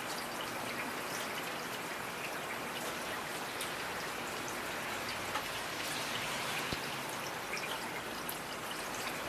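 Steady rain falling, a constant hiss with many small individual drops pattering on a surface.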